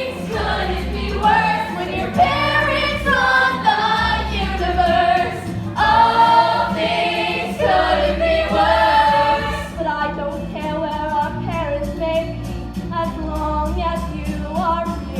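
Several voices singing a musical-theatre song together over instrumental backing with a steady bass line. About ten seconds in, quick even ticks like a hi-hat come into the accompaniment.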